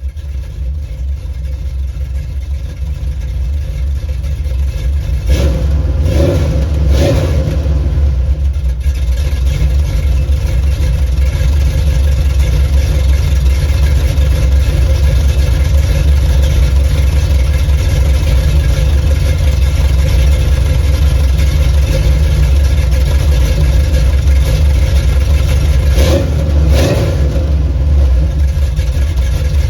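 A 383 stroker small-block Chevy V8 running through Flowmaster Super 44 mufflers on a true dual exhaust, a deep, loud rumble. It grows louder over the first few seconds, then holds steady, with brief sharper bursts about six to seven seconds in and again near the end.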